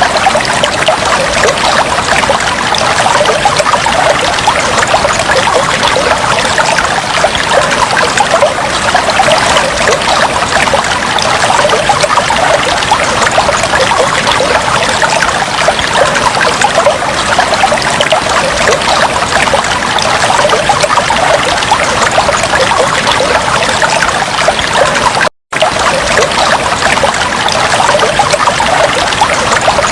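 Aquarium water trickling and splashing steadily, as from a tank's filter and aeration. The sound cuts out for a split second about 25 seconds in.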